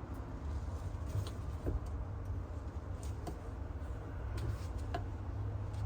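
Scattered light clicks and knocks of wooden Layens hive frames being handled, over a steady low rumble.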